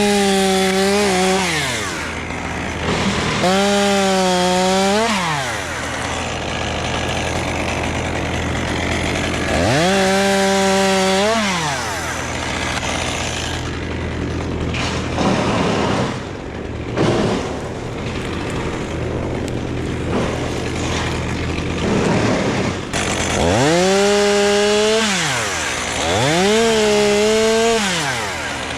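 Chainsaw revved up to full speed in short bursts, about five times, each held for a second or two before dropping back to a steady idle. Stretches of rougher noise between the revs.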